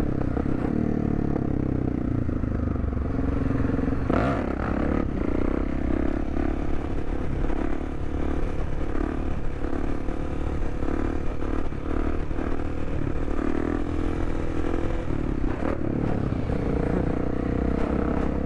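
Supermoto motorcycle engine pulling at steady revs during a wheelie, dipping briefly a few times as the throttle is eased, with wind rushing over the helmet microphone.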